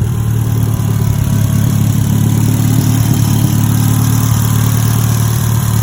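Mitsubishi Lancer Evolution X's turbocharged 2.0-litre four-cylinder idling steadily through an aftermarket AMS downpipe and midpipe and an ETS V3 axle-back exhaust, with a deep even exhaust note.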